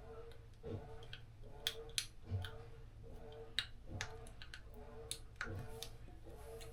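Faint, regular ticking, a little more than one beat a second, with scattered sharper clicks over it.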